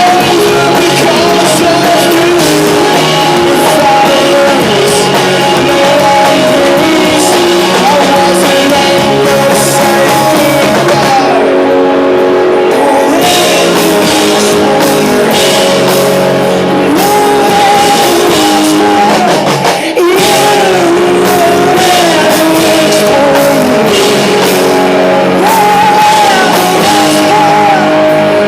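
Live rock band playing loud, with a singer's voice over guitars and drums.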